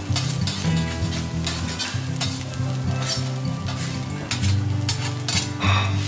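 Fried rice sizzling on a hot teppanyaki griddle, with short scrapes and taps of a metal spatula on the steel plate.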